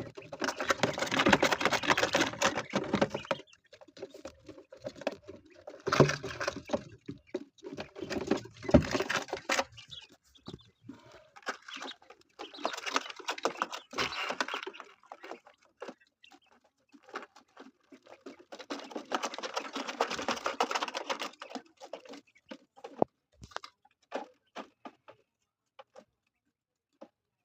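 Twelve-day-old Texas quail chicks moving about in their enclosure. Several bursts of rustling and scratching come a few seconds apart, with scattered sharp taps of pecking between them.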